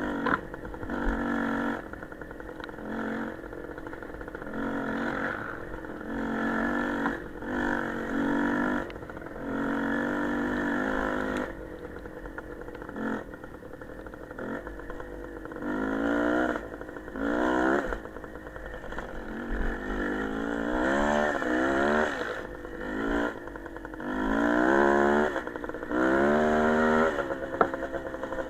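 Small motorcycle engine being ridden, the throttle opening and closing in repeated swells every second or two. In the second half it accelerates hard several times, its pitch climbing in rising sweeps.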